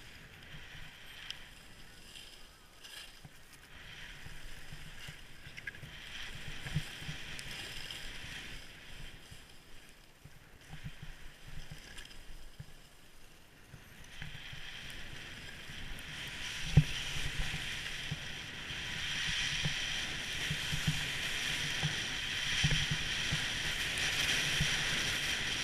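Skis sliding and carving over snow, a steady scraping hiss that grows clearly louder about halfway through as speed picks up, over a low buffeting rumble of wind on the microphone, with an occasional thump.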